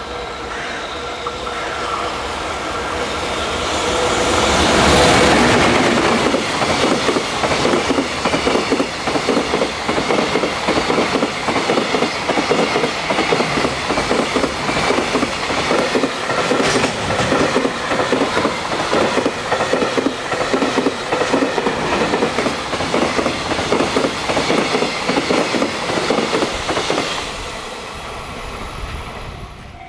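A high-speed container freight train hauled by a JR Freight EF210 electric locomotive passes at speed. It grows to its loudest about five seconds in as the locomotive goes by, then a long, rapid clickety-clack of wagon wheels follows, and the sound drops away suddenly near the end as the last wagon passes.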